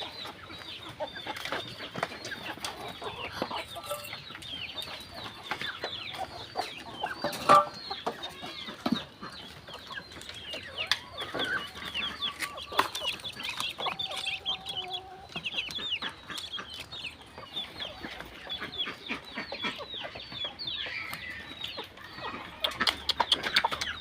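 Chickens clucking and chirping, a dense run of short, high, falling calls. There is one sharp knock about seven and a half seconds in.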